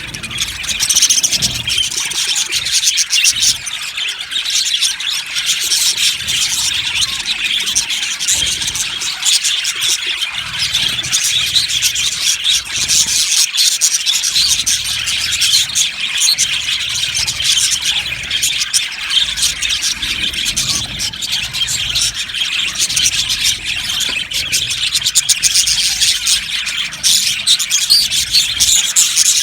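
A flock of budgerigars chirping and chattering together in a dense, continuous chorus of high, squeaky calls.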